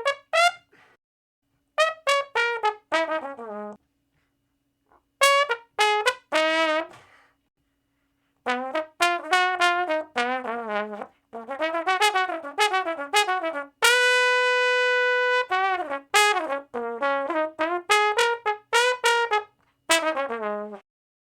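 A brass instrument playing short separate phrases of notes, many falling in pitch, with brief silences between groups and one long held note about two-thirds of the way through.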